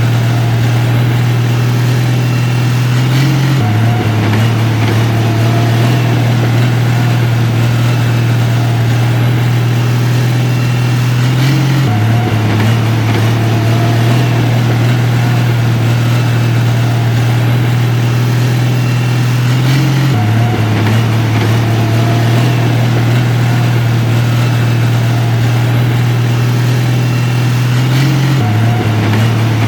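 Heavy construction machinery's diesel engine running steadily with a low drone. The pitch shifts slightly and abruptly about every eight seconds.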